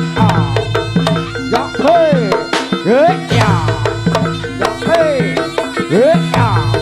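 Reog ensemble music: dense, fast percussion strikes over low held tones, with a drum stroke that bends up and falls in pitch about once a second.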